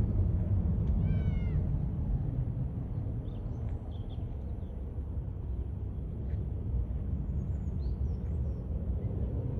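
Low rumble of a jet airliner slowly fading as it moves away. About a second in there is one short, slightly falling mewing call, and faint bird chirps come later.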